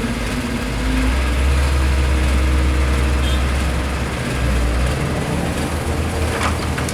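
Heavy diesel construction machinery running with a deep low rumble that eases off about two-thirds of the way through. A short high screech comes near the end.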